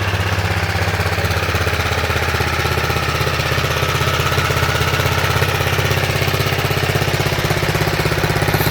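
156cc Tecumseh single-cylinder engine of a vintage Puddle Jumper mini bike idling steadily, with a fast, even putter.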